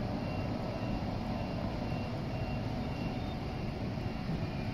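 SJ X2000 high-speed train rolling past along a station platform: a steady, even rumble and hum of the train in motion.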